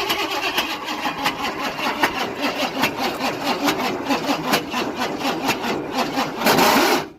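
Chevrolet squarebody Suburban's engine cranking over on the starter in a steady rhythmic chug, on a weak jumped battery, then cutting off abruptly near the end without running.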